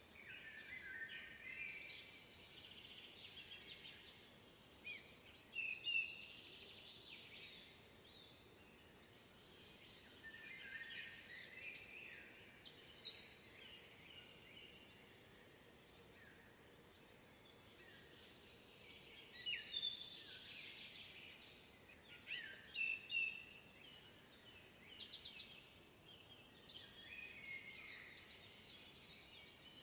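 Several songbirds singing at once: a steady run of warbling song, with louder, sharp high chirps and trills breaking in now and then. The chirps are loudest around six seconds in, around twelve seconds, and in clusters over the last ten seconds.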